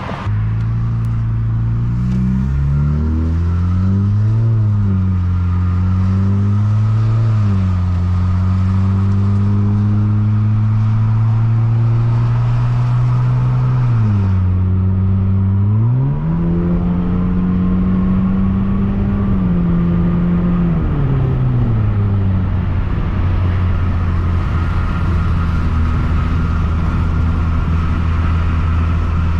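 Straight-piped 2020 Nissan Altima's four-cylinder engine and exhaust pulling hard under acceleration: the engine note climbs and drops back several times, then settles into a steady drone at cruising speed for the last several seconds.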